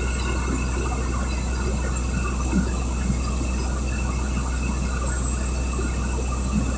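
Train running with a steady low rumble, a faint steady high whine above it and a few light knocks.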